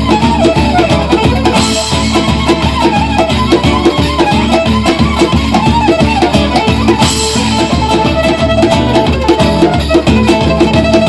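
Live band playing a fast instrumental piece in a Romanian gypsy style, a quick melody line running over a steady driving beat.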